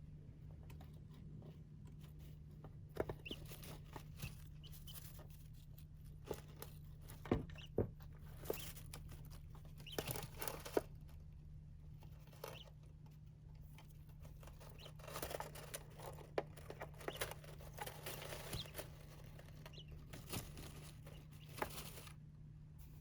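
Small pet birds scrabbling and pecking in a sand bath: scattered light clicks and short scratchy rustles, over a steady low hum.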